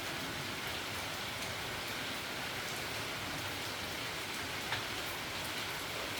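Storm rain falling steadily, a dense even hiss of drops, with one sharper click about three-quarters of the way through.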